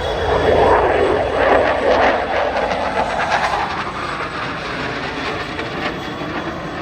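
An aircraft flying past low and close: a loud, rough engine sound that swells up suddenly, peaks in the first couple of seconds, then slowly fades away.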